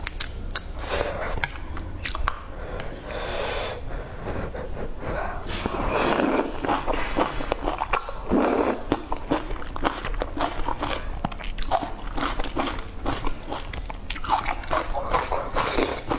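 A person chewing and biting food lifted from a spicy hotpot broth, with many short wet mouth clicks throughout.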